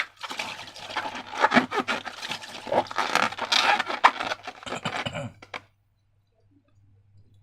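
Close-up handling of slime: a dense, irregular run of crackles, clicks and wet squelches that stops suddenly about five and a half seconds in, followed by near silence.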